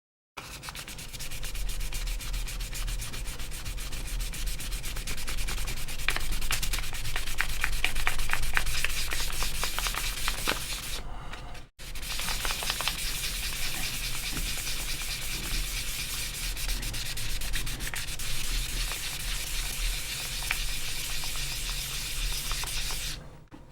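Hand-sanding the plastic of an AirPods Pro case with sandpaper: rapid back-and-forth scratching strokes, with a brief pause about halfway through.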